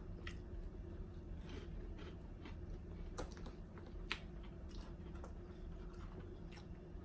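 Quiet chewing, with scattered small crisp clicks and smacks of food being bitten and eaten.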